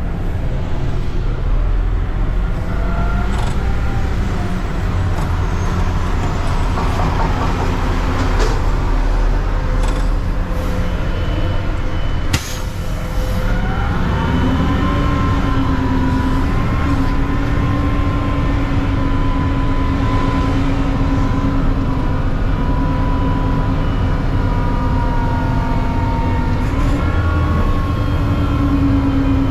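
Mack CNG garbage truck engine running, its pitch shifting up and down, then held steady at a raised speed from about halfway through. A single sharp click about twelve seconds in.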